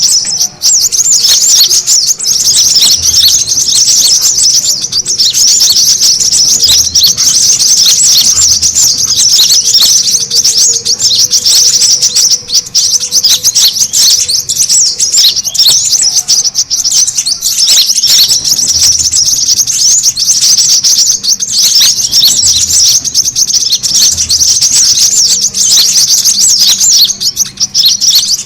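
Brown-throated sunbirds (kolibri kelapa) in noisy, agitated chatter: a dense, unbroken run of rapid high-pitched chirps and trills, the kind of call used to lure other birds in.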